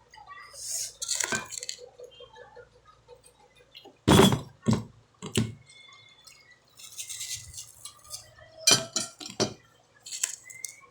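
Dishes and cutlery clinking in sharp knocks, a cluster about four seconds in and another near nine seconds, with quieter eating sounds of mango being chewed between.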